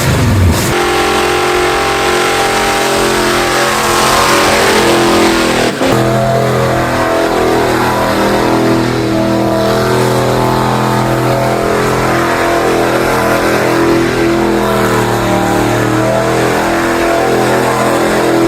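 402 cubic inch big-block Chevrolet V8 in a C10 pickup revving hard and held at high revs, with a brief break about six seconds in.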